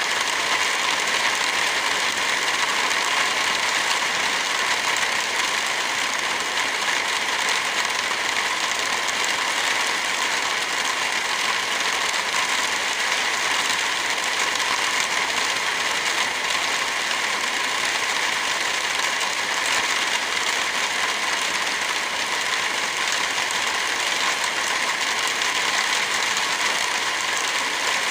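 Steady rain together with a crackling wood fire: an even hiss with many small crackles.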